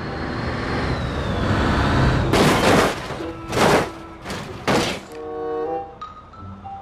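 A plastic toy truck being handled: a rumbling noise, then four short, loud clattering bursts about half a second each. A simple melody plays near the end.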